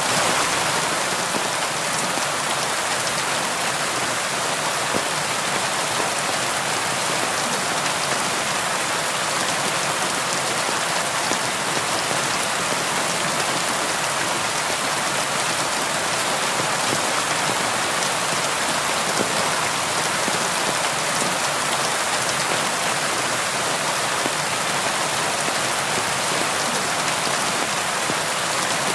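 Steady rain pattering on a window, a dense even hiss with fine scattered drop ticks.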